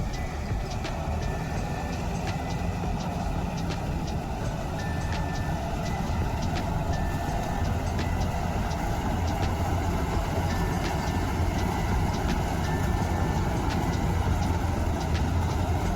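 Diesel engine of heavy farm machinery running steadily under a low drone, with short high-pitched beeps coming and going and scattered light clicks.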